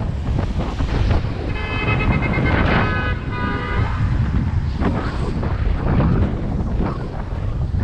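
Wind buffeting the microphone on a moving bicycle, a loud, steady rumble. About a second and a half in, a brief high tone with several steady overtones sounds for about two seconds.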